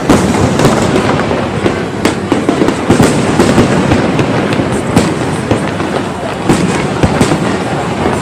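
Fireworks display: a dense, continuous run of bangs and crackling, several sharp reports a second.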